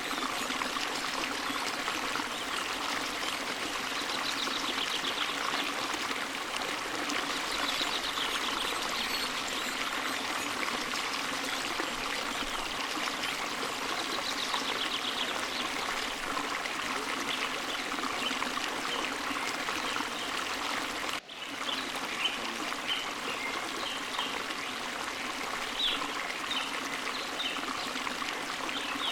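Forest stream flowing steadily, water running and trickling over rocks, with short high bird chirps now and then. The sound cuts out briefly about two-thirds of the way through.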